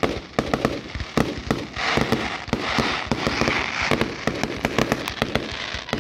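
Fireworks display going off in a rapid, irregular run of bangs, with a dense hissing spell from about two to four seconds in.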